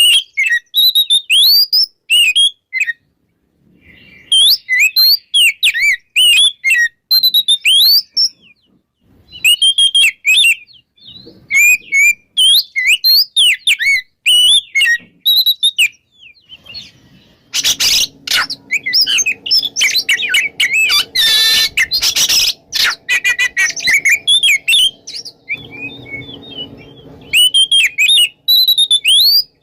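Oriental magpie-robin singing loud, varied whistled phrases in bursts with short pauses between them. About two-thirds of the way through, a harsh noise and a low steady hum come in beneath the song for several seconds.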